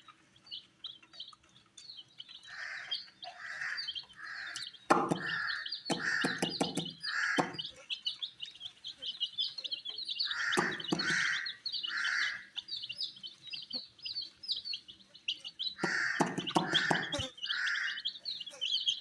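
A group of baby chicks peeping continuously in fast, high chirps, some cheeps louder than the rest, with three clusters of sharp taps.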